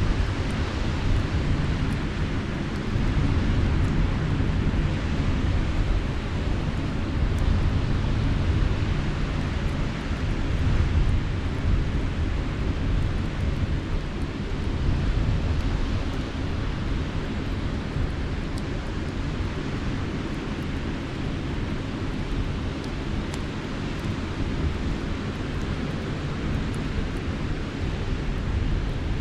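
Steady, loud rumble of wind buffeting the microphone over the wash of sea surf, with a few faint crackles from a campfire.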